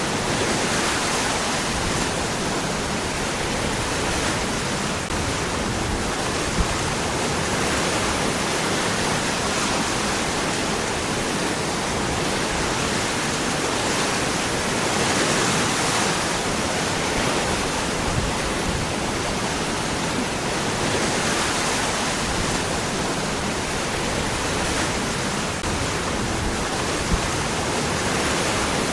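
Waterfall: water falling and rushing over rocks, a steady full rush with slow swells.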